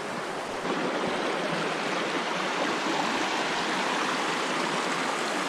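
Steady rush of a fast, high-running creek, its water tumbling over rocks in spring flow.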